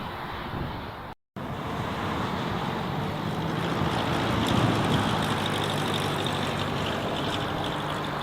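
Small aircraft's engine passing, growing louder to a peak about four and a half seconds in and then holding steady, over the low rumble of strong wind on the microphone. The sound cuts out completely for a moment about a second in.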